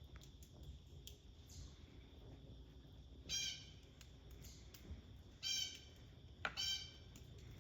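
Blue jay giving about four short, harsh squawking calls, a second or two apart.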